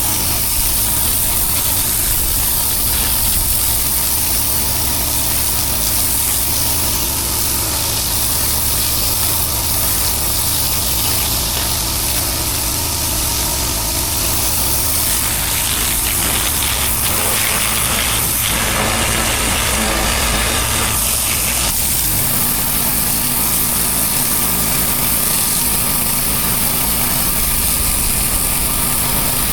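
Pressure washer engine running steadily under a continuous hiss of spraying water.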